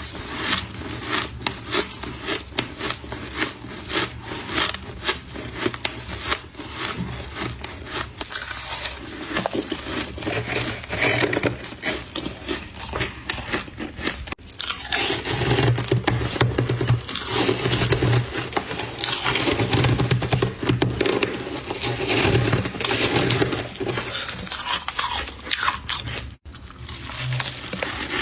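Humidifier frost being scraped and crunched between the teeth, a dense run of crisp crackling crunches. It grows louder and fuller from about halfway through, with a brief break twice.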